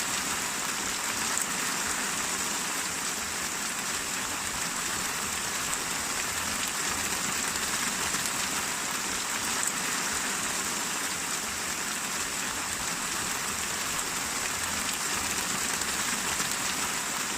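Steady rain falling on a surface: an even hiss without breaks.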